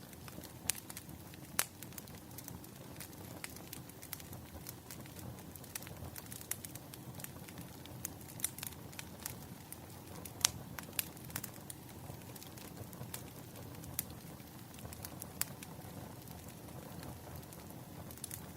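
Wood fire crackling, with irregular sharp pops and snaps over a low, steady rumble of burning logs.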